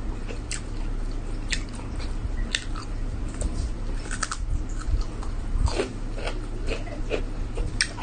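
Close-up eating sounds of a person chewing rice and chicken in chili sauce, with short sharp mouth smacks and clicks roughly once a second, over a steady low hum.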